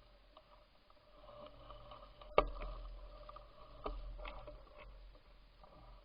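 A sharp knock about two and a half seconds in and a weaker one about a second and a half later, over a faint steady hum and low rumble.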